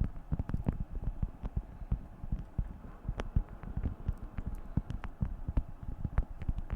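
Beeswax food wrap being crinkled and handled: a dense, irregular run of soft crackles and clicks with a few sharper ticks.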